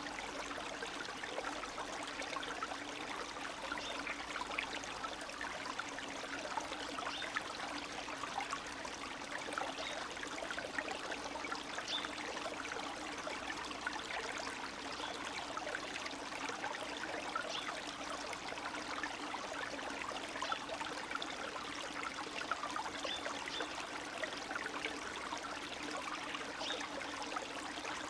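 Spring stream of meltwater running and trickling steadily, with a dense patter of small splashes.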